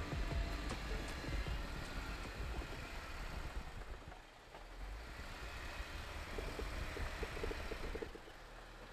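Jeep engine running with a steady low rumble, dropping away about eight seconds in.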